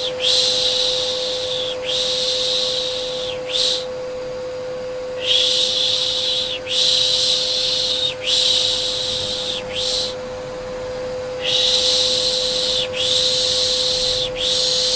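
Rhythmic shushing, 'shh, shh, shh', in sets of three drawn-out hisses with a short pause between sets, over the steady hum of a vacuum cleaner motor. It is a soothing white-noise sound for settling babies.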